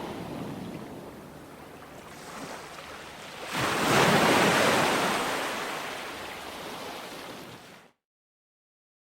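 Ocean surf washing on a beach: a wave breaks loudly about three and a half seconds in and slowly washes out. Near the end the sound cuts off abruptly into dead silence.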